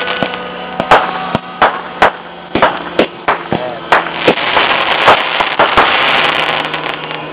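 Fireworks going off: an irregular series of sharp pops and bangs, with a denser crackling hiss of sparks about four to six seconds in, over a steady low hum.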